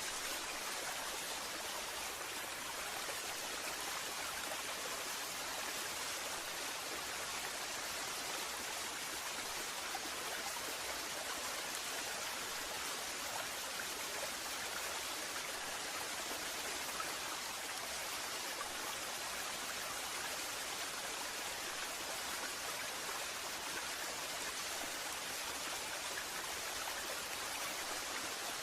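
Waterfall: a steady, unbroken rush of falling water, with a hiss weighted toward the high end.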